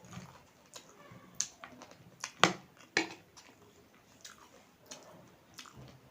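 A person chewing spicy Current instant noodle chatpate, with wet mouth smacks and clicks at irregular intervals, the loudest about two and a half seconds in.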